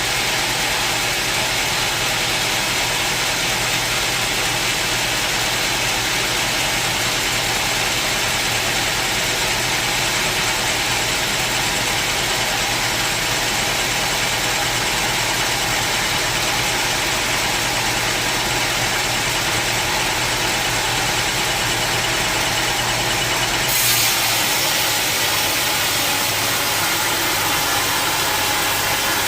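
Sawmill machinery running steadily, a constant mechanical noise with a low hum. About 24 s in there is a short click, and the sound is a little brighter after it.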